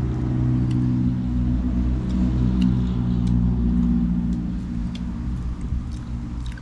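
An engine running steadily at idle, a low even hum, with a few faint clicks over it; it eases off slightly near the end.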